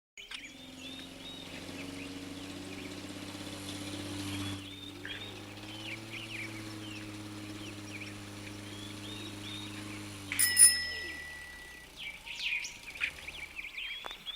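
Birds chirping over a steady low drone. A sharp, bright ping about ten seconds in, after which the drone fades away, leaving only scattered chirps and a few soft knocks.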